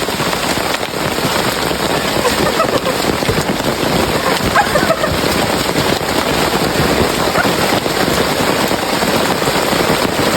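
Heavy rain falling steadily, a dense hiss of many drops.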